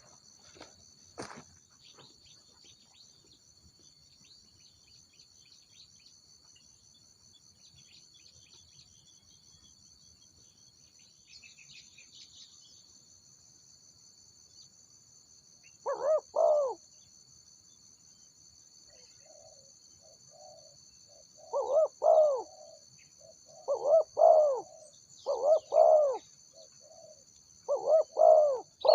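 Spotted dove cooing: silent at first, then from about halfway a short burst of coos, followed near the end by a run of repeated coo phrases every two seconds or so. Insects buzz steadily underneath throughout.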